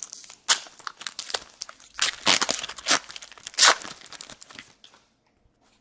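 Foil trading-card pack wrapper being torn open and crinkled, a run of short rasping tears and crackles that stops about five seconds in.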